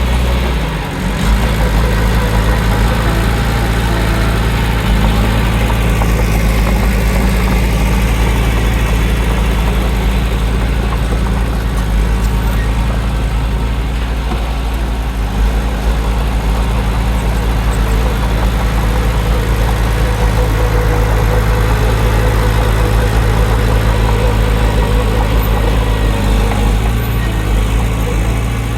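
Heavy diesel engine of earthmoving machinery running steadily with a deep rumble, its level hardly changing.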